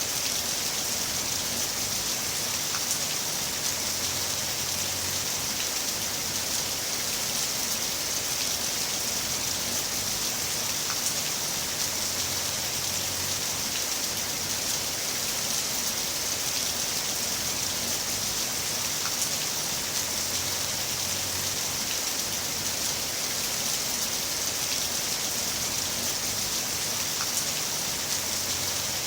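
Heavy rain falling steadily, a dense even hiss with a few separate drops ticking through it.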